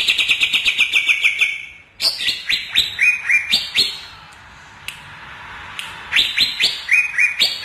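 Cucak ijo (green leafbird) singing loud, rapid chirping phrases: a fast falling trill, then a run of sweeping notes, a pause, and another burst near the end.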